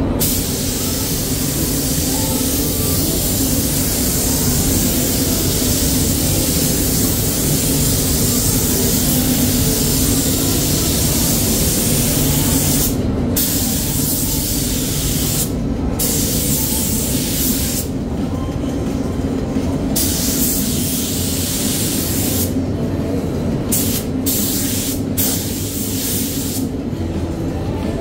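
Paint spray gun hissing as coats are laid on, with the trigger let off for short breaks several times in the second half, over a steady low hum.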